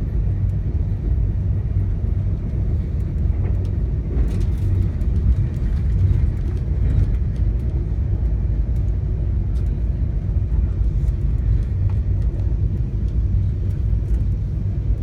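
VIA Rail passenger train running, a steady low rumble with a few faint clicks here and there.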